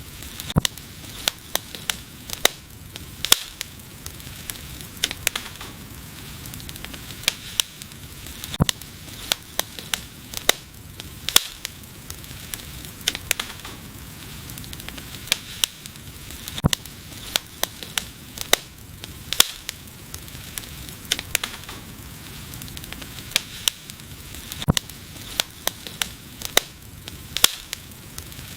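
Wood fire burning with irregular sharp crackles and pops, sometimes several in quick succession, over a steady soft rush and hiss of the flames.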